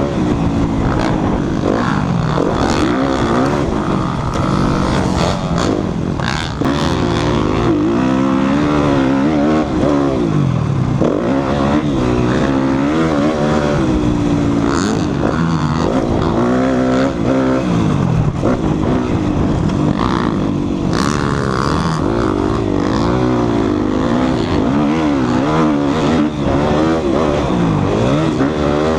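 Dirt bike engine revving hard on a motocross track, its pitch climbing and dropping again and again as the rider works the throttle and shifts through the gears.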